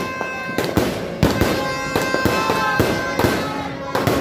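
Fireworks going off: a rapid series of sharp bangs from aerial shells, about three a second, over steady held tones and a few sliding whistles.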